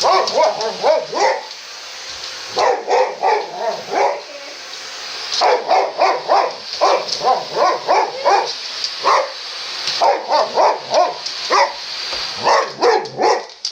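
Boxer dog barking in quick runs of several barks at a time, over the steady hiss of a running vacuum cleaner that stops near the end.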